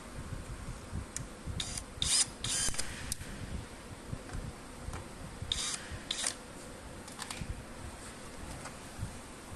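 Hands-on repair handling noise: several short rasping scrapes about one and a half to three seconds in and twice more around six seconds, over irregular low bumps.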